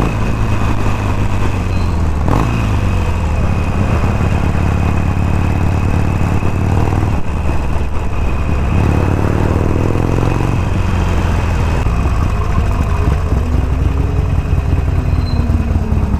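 Harley-Davidson Forty-Eight's air-cooled V-twin running under way, loud and steady, with its pitch rising a few times as it accelerates.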